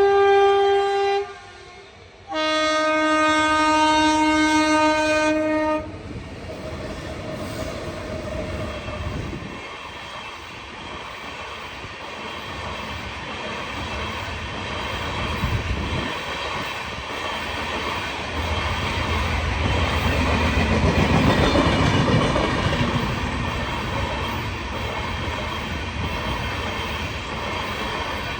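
Train horn sounding twice, a short blast and then a longer one of about three seconds, followed by the train passing over the level crossing, its running and rail noise building to a peak and then easing off.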